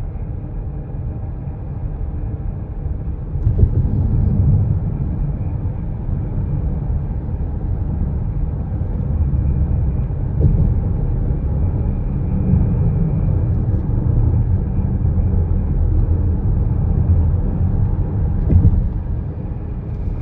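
2025 Chrysler Pacifica Hybrid accelerating, a low rumble with a steady hum and a faint high tone over it; the owner treats the hum under acceleration as an unwanted noise in the brand-new van. The rumble grows louder about three and a half seconds in.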